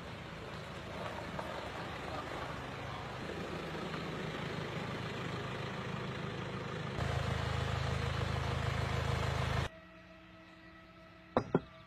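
Vehicle engine running steadily under load with a low hum and road noise, slowly growing louder. It jumps abruptly to a louder stretch about two-thirds of the way in, then cuts to a much quieter stretch with a faint steady tone and two sharp clicks near the end.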